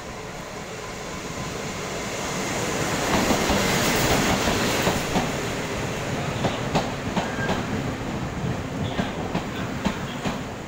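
Locomotive-hauled passenger train pulling into the platform close by. The rumble builds to its loudest as the locomotive passes, about three to five seconds in. Then the coaches roll past with a run of clicks from the wheels over the rail joints.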